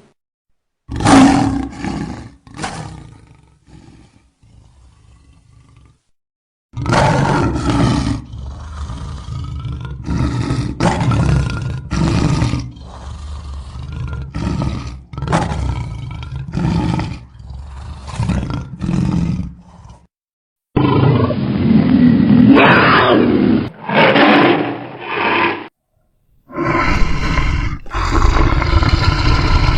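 A sequence of edited lion-like roar and growl sound effects, spliced together with abrupt cuts and short gaps. Two roars open it, then a fast run of about a dozen short snarling roars, then after a pause a duller roar and another long roar near the end.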